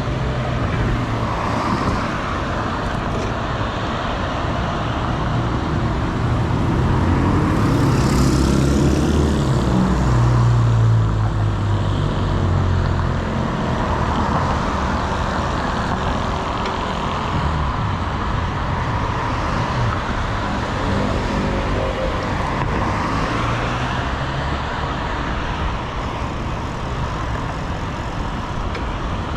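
City road traffic, motor vehicles running past in a continuous rush of engine and tyre noise. It swells loudest from about 7 to 11 seconds in as a vehicle passes close.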